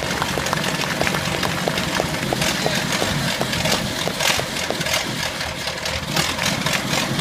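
Ford Model T's four-cylinder engine running at idle, just started for the first time after being assembled, with a regular light ticking over a steady low running sound.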